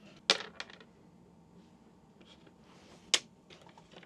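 Backgammon dice and checkers clicking on the board: a sharp clack about a third of a second in followed by a few smaller rattling clicks, then another sharp clack about three seconds in.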